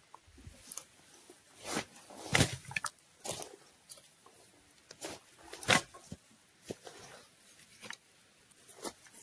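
Irregular rustles, crackles and light knocks from hands-on camp work, about eight separate noises a second or so apart, with two louder ones about two and a half and five and a half seconds in.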